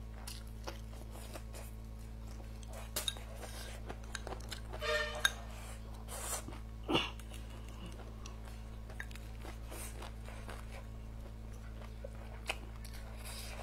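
Close-miked chewing of a mouthful of rice, fish and fried green peppers: soft wet smacks and small clicks, with a few louder mouth noises, over a steady low hum.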